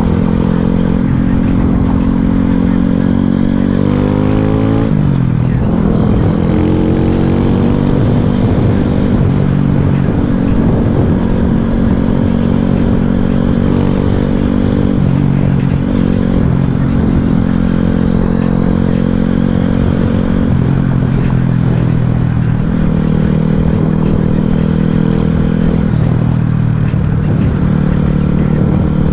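2021 Boom Vader mini bike's single-cylinder engine, fitted with a 141 cc big-bore kit and Nibbi carburettor, running under way. The revs climb for a few seconds and drop sharply about five seconds in, then hold fairly steady with a few small rises and falls.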